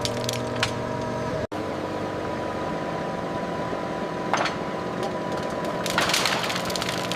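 Steady running of heavy machinery, cut off for an instant about one and a half seconds in, with two sharp cracks later on.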